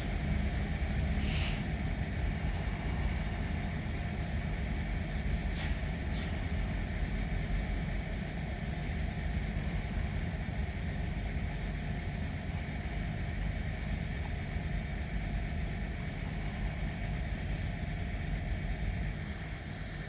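Diesel locomotive running steadily, a low rumble, with a short hiss of air about a second in.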